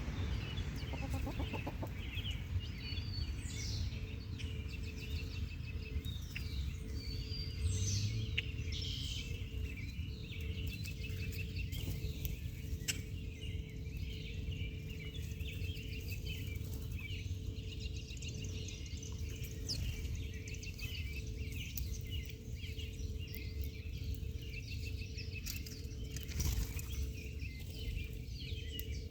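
Many birds chirping continuously in quick, high-pitched calls, over a steady low rumble.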